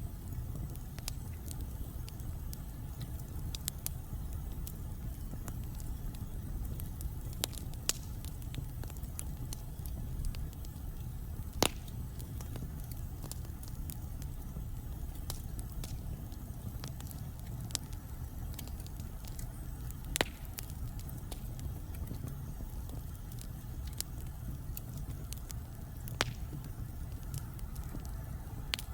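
Wood fire burning in a fireplace: a steady low rumble of flames with scattered crackles and a few louder pops of the burning logs.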